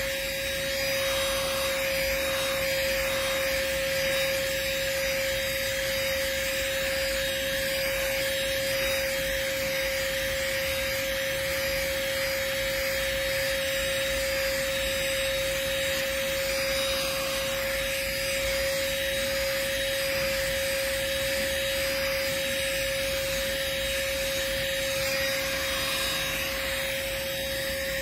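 Handheld cordless vacuum running steadily with a constant high whine and airy hiss, its nozzle rubbing over chair upholstery as it picks up pet fur.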